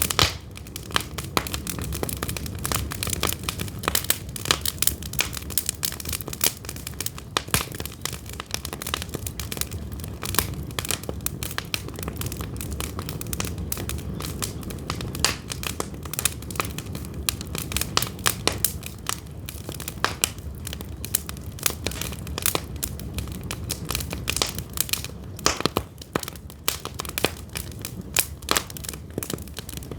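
Pine firewood burning. It crackles with frequent, irregular sharp pops over a low, steady rumble of the flames.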